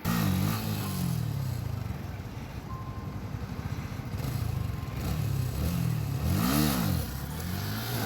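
Yamaha Sniper 150 FI motorcycle's single-cylinder engine revving up and down repeatedly, with one sharp rev and drop about six and a half seconds in.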